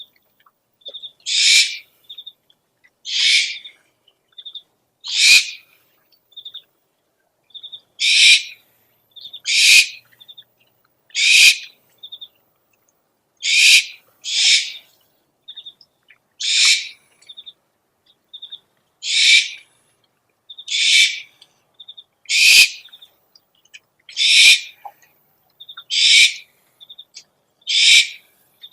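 Owl lure recording of an owl calling: a harsh, rasping screech repeated about every one and a half to two seconds, with quick high chittering notes between the screeches.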